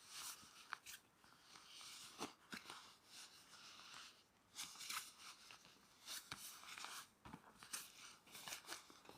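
Faint, irregular rustling and crunching of things being handled, with a few sharp clicks.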